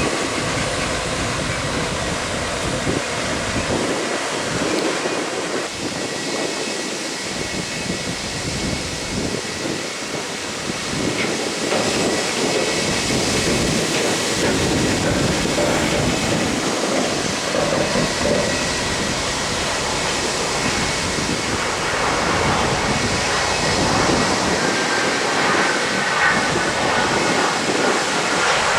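Jet aircraft engines running: a steady rushing noise with a faint high whine, growing slightly louder about halfway through.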